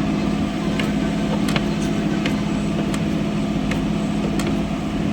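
An engine idling with a steady hum, with about ten light clicks scattered irregularly over it.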